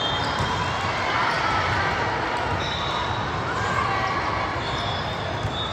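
Indoor volleyball gym din: balls being struck and bouncing, short high sneaker squeaks on the court floor, and a steady blur of distant voices echoing in a large hall.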